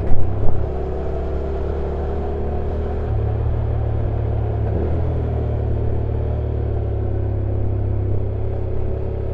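Honda NC750X's parallel-twin engine running at low, fairly steady revs while riding downhill, under steady road and wind noise, recorded on the bike. A few sharp knocks come in the first half second.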